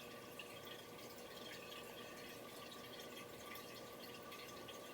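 Faint steady background hiss with a thin, steady hum and no distinct events.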